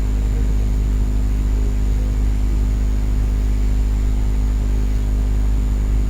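Steady low drone of a vehicle's engine and road noise heard from inside the cabin while driving slowly on a snow-covered road, with a faint steady high whine above it.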